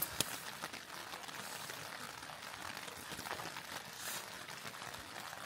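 Quiet crunching of vegetable tempura being chewed close to the microphone, a few irregular crisp clicks over a faint steady hiss.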